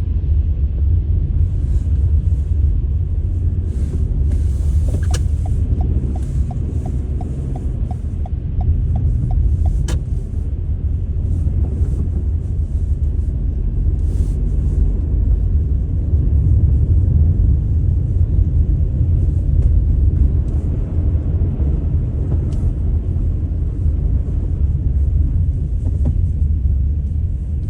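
A steady, loud low rumble, with a brief run of faint, evenly spaced ticks, about four a second, some five seconds in.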